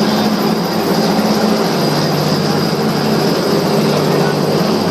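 Helicopter rotor and engine sound, loud and steady, with a constant low hum.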